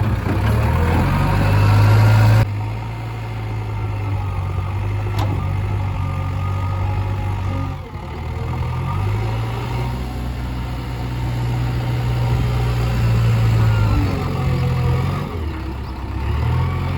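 Diesel engine of a JCB backhoe loader running under working load, its speed rising and falling several times as the machine works.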